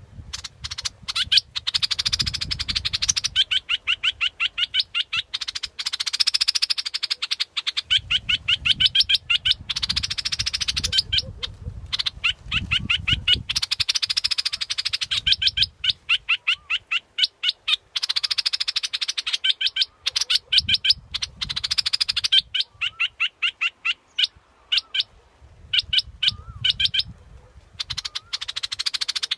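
Bulbul song from a bird-lure recording: bouts of rapid, evenly repeated sharp chirping notes, broken by harsher buzzy rattles, going on and off every few seconds.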